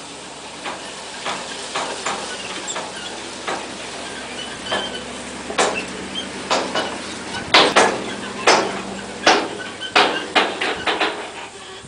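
Irregular sharp knocks and clanks over a steady low engine hum, the heaviest knocks in the second half. They plausibly come from a Tafe 2800 tractor and its front end loader at work on topsoil.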